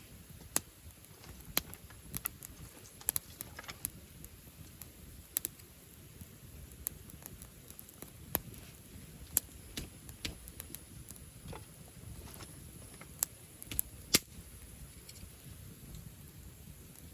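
Wood campfire burning, crackling with irregular sharp pops and snaps over a low steady noise of the flames.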